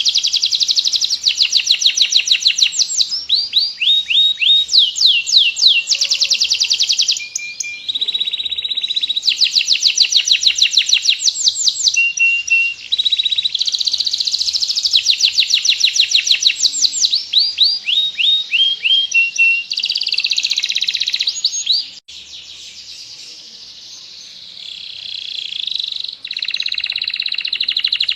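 Domestic canary singing long rolling trills: fast runs of repeated high notes, one phrase after another, with a softer, quieter passage about three-quarters of the way through.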